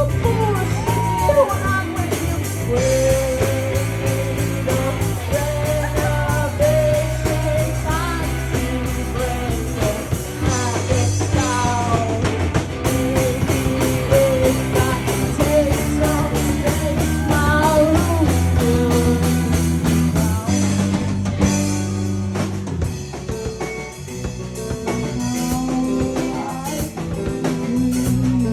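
A band playing live rock with a singer, guitar and drum kit. The vocal line drops out about two-thirds of the way through, leaving the guitar and drums playing on.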